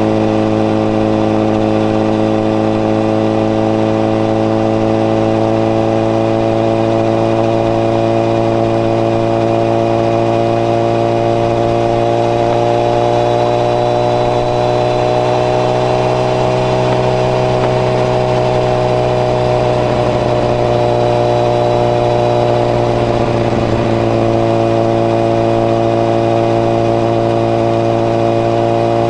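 Honda CBR1000RR's inline-four engine running through a modified Moriwaki exhaust with its baffle in, while riding at steady revs. The revs rise gently about halfway through and settle back a few seconds later.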